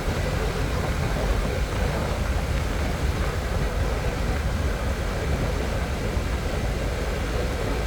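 Harley-Davidson Pan America's V-twin engine running at a steady cruise, under heavy wind rush on a helmet-mounted microphone.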